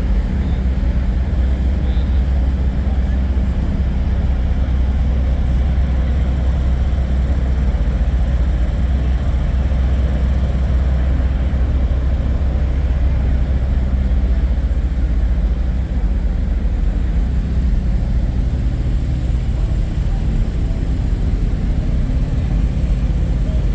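Steady low rumble of idling semi-truck diesel engines, with faint crowd chatter.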